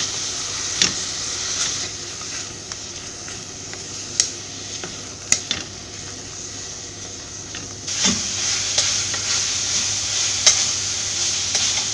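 Sliced onions, cashews and green chillies sizzling as they fry in an aluminium pressure cooker, stirred with a wooden spatula, with a few sharp taps of the spatula against the pan. The sizzle gets louder about eight seconds in.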